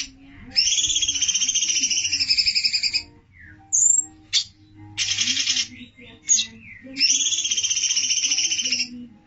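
Recorded songbird song used as a training track for cage birds: three runs of rapid, buzzy trilled notes, two of them about two seconds long, broken by single short, sharp high notes.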